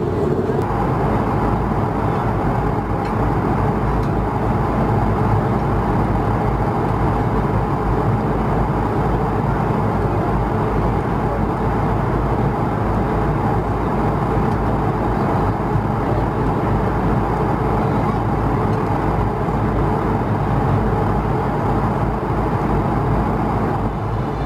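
Steady cabin noise inside a climbing Airbus A220-100: the drone of its Pratt & Whitney PW1500G geared turbofans mixed with the rush of air past the fuselage, with a few faint steady tones through it. It fades down near the end.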